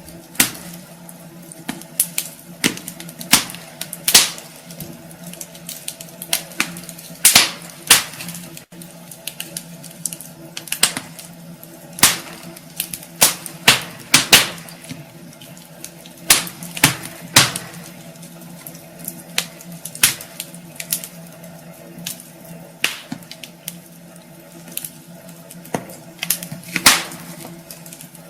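Wood fire crackling in a fireplace: irregular sharp pops and snaps of burning logs, some louder than others, over a faint steady hum.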